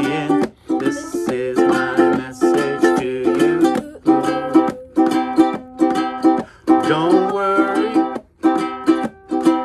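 A strummed string instrument plays chords in a steady, even strumming rhythm, accompanying a home performance of a song.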